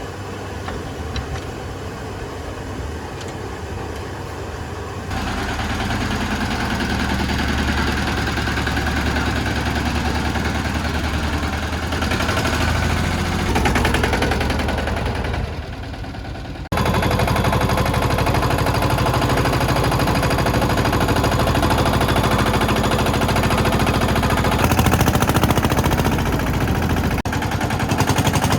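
Escort Steeltrac 15 mini tractor engine running steadily, in several cut-together stretches: it gets louder about five seconds in, drops away briefly past the halfway point, then comes back loud.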